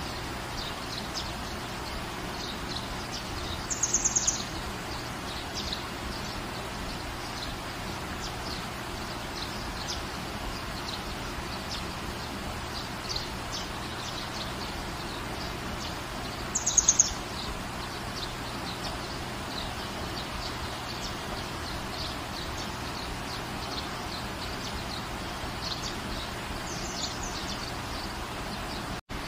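Steady rain falling, with a bird's short, rapid, high chirping call rising out of it twice, about four seconds in and again around seventeen seconds. The sound cuts out for a split second just before the end.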